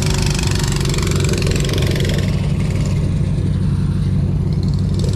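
Small engine of a mini bike trike running steadily at idle.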